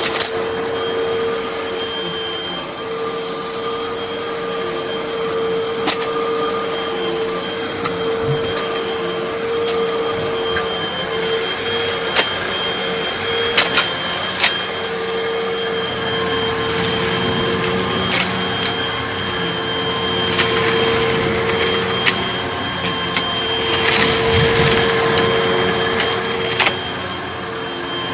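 Hoover vacuum cleaner running with a steady motor whine, and scattered sharp clicks and crackles as it sucks up small crunchy debris.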